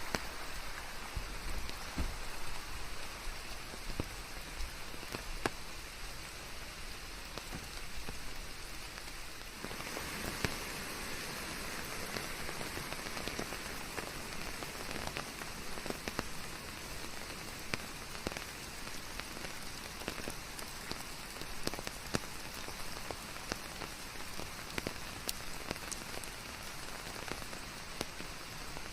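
Steady rain falling: an even hiss flecked with scattered separate drops. About ten seconds in it thickens into a denser, brighter downpour.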